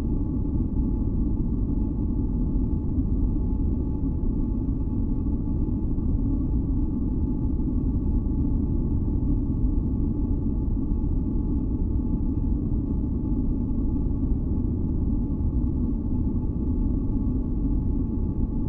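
Steady masking noise, deep and rumbling and heaviest in the low end, with a few faint held tones above it. It does not change over the whole stretch.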